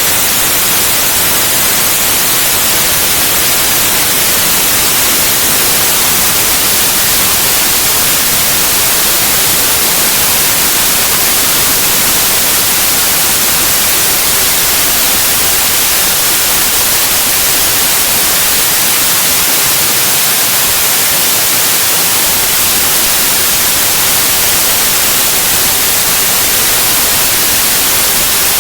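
Steady, loud white noise: an even hiss with no change or events, brightest in the treble.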